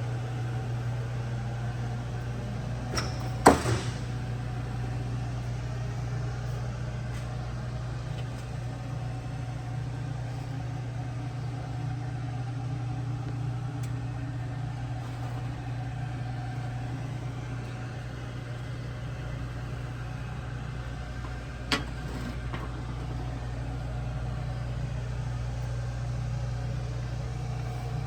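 1968 Chevrolet Camaro race car's engine idling steadily, with two sharp knocks, one a few seconds in and another about two-thirds of the way through.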